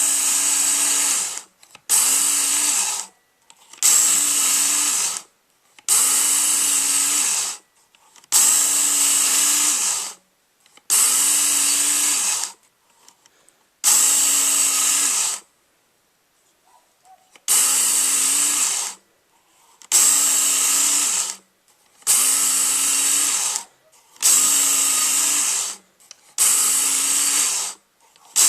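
Work Sharp electric belt knife sharpener run in a series of short passes, each about a second and a half of motor whir and abrasive belt grinding on the knife's steel edge. The passes start and stop abruptly about every two seconds, with one longer pause near the middle.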